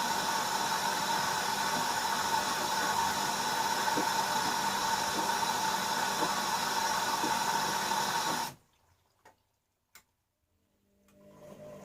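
Bauknecht Super Eco 6413 washing machine drawing in water through its inlet valve, a steady rushing hiss with a faint whine, which cuts off abruptly about three-quarters of the way through as the valve closes. Two faint clicks follow, then a low hum starts up near the end.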